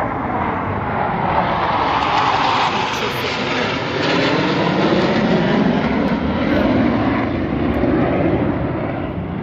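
Military fighter jet flying past overhead: a loud, continuous jet-engine roar that drops in pitch as it passes.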